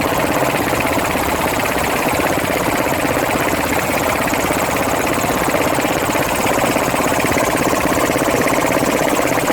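Helicopter in flight, its engine and rotor running steadily with a fast, even pulsing from the blades; it grows a little louder about two thirds of the way in.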